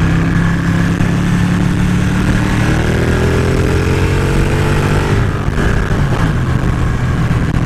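Ducati 1199 Panigale's 1198 cc V-twin engine running steadily at cruising speed, with wind rush on the mic.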